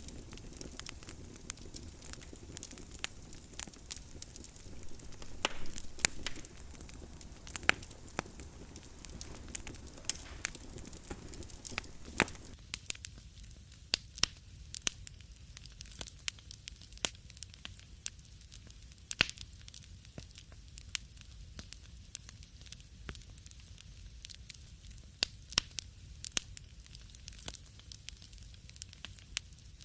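Wood fire crackling in a fireplace: many sharp, irregular pops and snaps over a soft hiss. About twelve seconds in, the hiss drops away and the pops go on against a quieter background.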